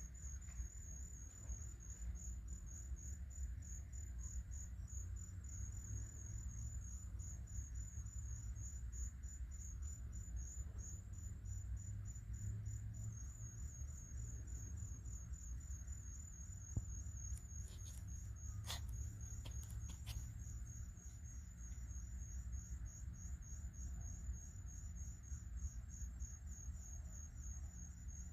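Crickets chirping in a steady, high, evenly pulsed trill over a low rumble, with a few short clicks about two-thirds of the way through.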